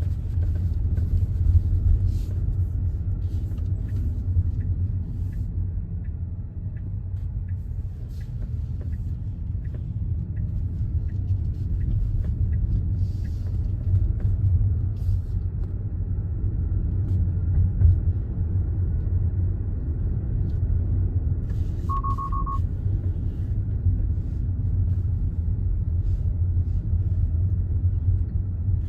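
Steady low rumble of a Tesla driving on the road: tyre and road noise with no engine note. A brief electronic beep sounds about twenty-two seconds in.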